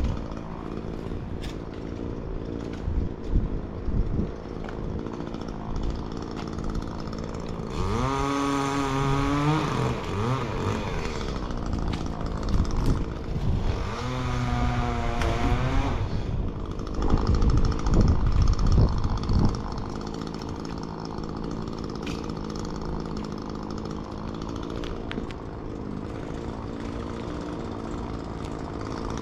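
Two-stroke chainsaw engine running steadily, revved up twice for a couple of seconds each, about eight and fourteen seconds in, with the pitch rising and falling. A few low thumps come in between.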